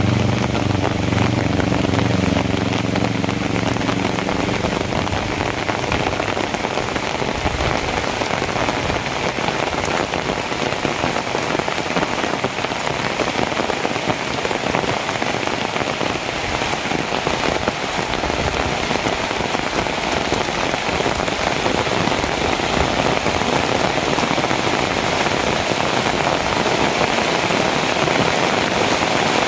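Heavy rain falling steadily on hard surfaces. During the first few seconds a vehicle engine idles underneath the rain and then fades out.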